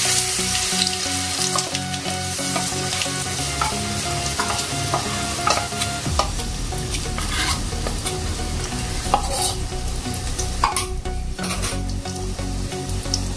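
Chana dal paste sizzling and frying as it goes into hot ghee with cumin seeds in a kadhai. A metal spoon scrapes the paste out of a steel bowl, with sharp clicks now and then.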